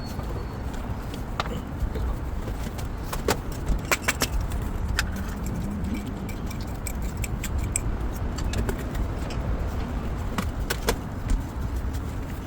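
Steady low background rumble of a busy street, with scattered short, sharp clicks and clinks, a dozen or so spread unevenly through it.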